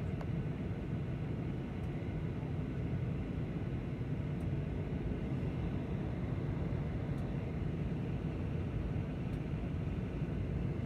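Airliner in flight, a steady low rumble of engines and rushing air.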